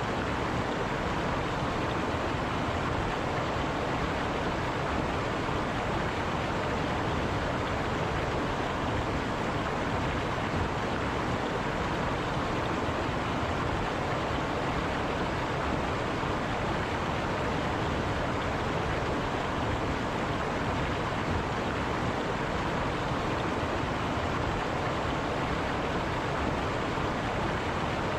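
River flowing over rocks, a steady rushing of water with no breaks or changes.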